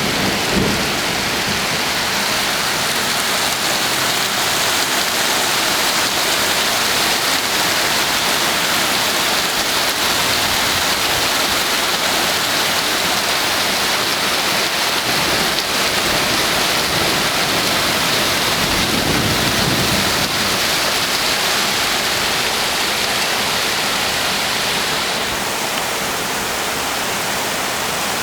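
Heavy rain falling steadily in a thunderstorm, a dense even hiss with a low rumble near the start and another about twenty seconds in. The downpour eases slightly near the end.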